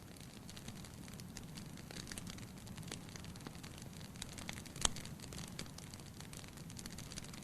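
Firewood burning in a fireplace: a soft steady rumble of flame with frequent small crackles and one louder pop about five seconds in.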